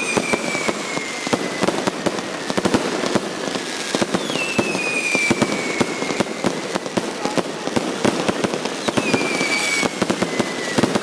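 Fireworks going off continuously: dense crackling and popping, with long falling whistles, one fading at the start, another about four seconds in and a third about nine seconds in, each lasting a couple of seconds.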